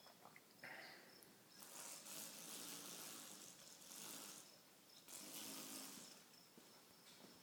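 Near silence: faint background with a thin, steady high tone and three soft, breathy swells of noise.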